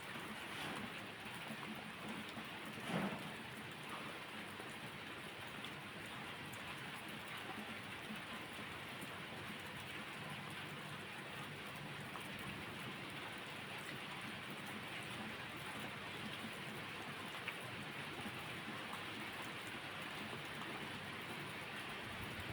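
Steady rain falling, an even hiss, with one brief louder pop or knock about three seconds in.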